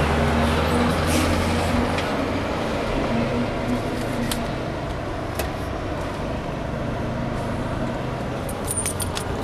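Motor coach's engine and road noise heard from inside the cabin, a steady drone whose deep low hum drops away about two seconds in. A few light clicks sound near the end.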